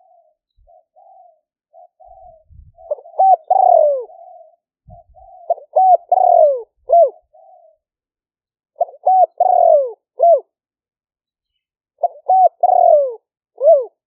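Spotted dove cooing: four repeated call phrases, each a few short clipped notes followed by a longer note that falls in pitch, with softer, quieter coos between the first phrases.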